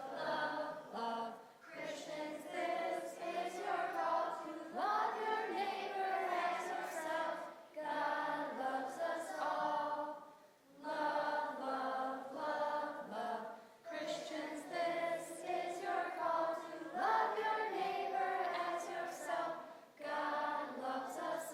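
A group singing a song together unaccompanied, voices only, in phrases of a few seconds with short breaks between them.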